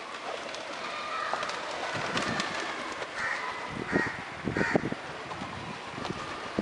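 Birds calling at a feeding spot: pigeons cooing, with short cawing calls from crows, and several brief low thumps in the second half.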